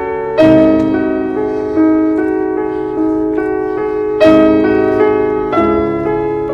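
Background piano music: slow, gentle chords, each struck and then left to ring and fade.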